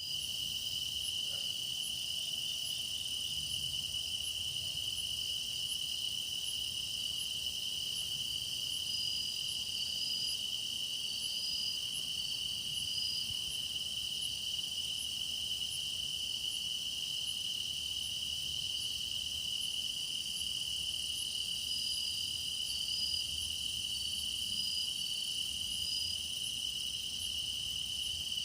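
Chorus of grass insects such as crickets singing: a continuous high trill, with a second insect ticking regularly higher up and short extra chirps joining now and then.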